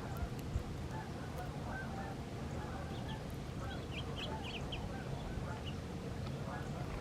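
A flock of birds calling, many short overlapping calls, with a quick run of higher chirps about three to four seconds in.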